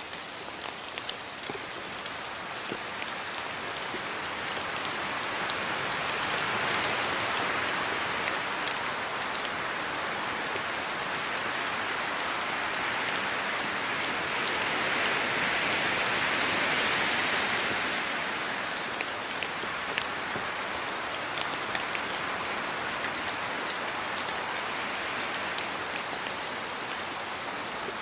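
Steady rain falling, with many individual drops striking close by. It swells louder twice, about six seconds in and again around sixteen seconds, then eases back.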